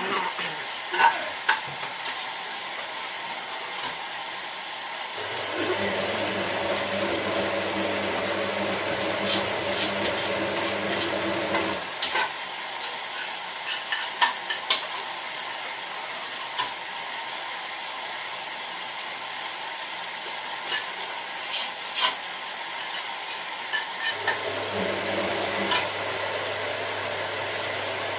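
Hotpoint 9534A washing machine mid-wash: the motor hums as it turns the drum for about six seconds, stops, and starts turning again near the end. A steady hiss and scattered clicks run throughout.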